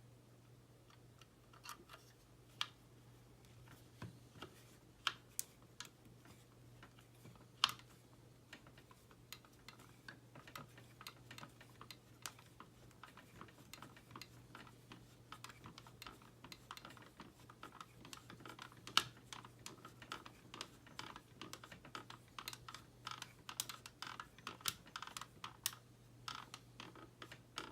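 Small hand screwdriver clicking and ticking as it turns tiny screws into the plastic parts of a scale model kit. The clicks are sparse at first and come quickly and irregularly from about ten seconds in, over a steady low hum.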